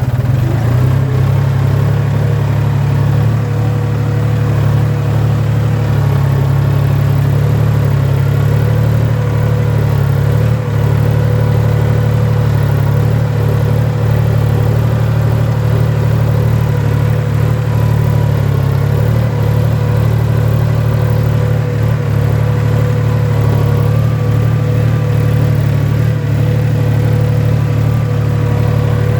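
Tractor engine running steadily under load while plowing a field, a constant low drone with a steady whine above it.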